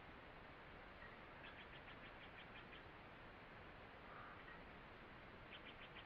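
Faint forest ambience: a soft steady hiss with a small bird's rapid series of high chirps about a second and a half in, and another series starting near the end.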